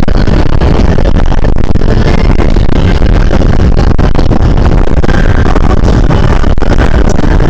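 Steady, loud wind and road noise on a body-worn camera's microphone while riding an e-bike, with heavy low rumble.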